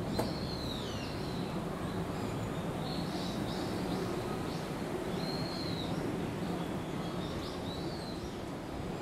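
Birds calling from the trees, short arched chirps about every second or so, over a steady low background rumble. A brief click just as it begins.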